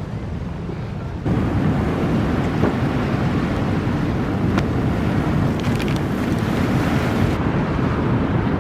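Wind buffeting the microphone over the rush of water from a boat under way, a steady noisy rumble that gets louder about a second in.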